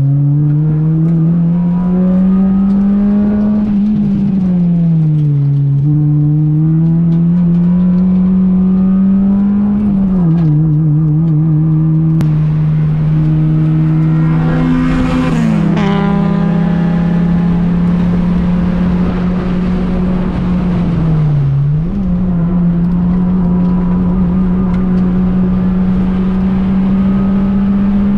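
Car engine heard from on board at track pace, running at high revs, its pitch climbing and dipping with throttle and gear changes and then holding steady for long stretches. A brief rushing noise rises and falls about halfway through.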